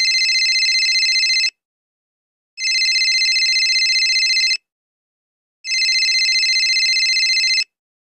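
Cell phone ringing: a high electronic trilling ring in three rings of about two seconds each, with a pause of about a second between them.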